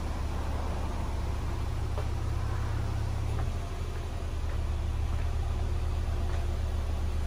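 2010 Subaru Impreza 2.5i's 2.5-litre flat-four engine idling steadily, heard from around the rear of the car. The low hum dips briefly about halfway through.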